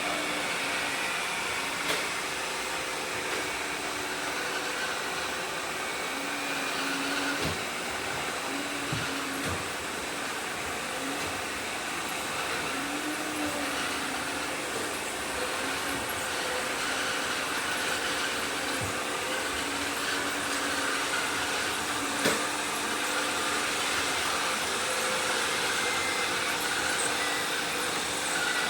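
Several robot vacuum cleaners running at once: a steady whirring hum of motors and brushes with a few wavering whining tones. Occasional sharp knocks sound through it, the loudest about 22 seconds in.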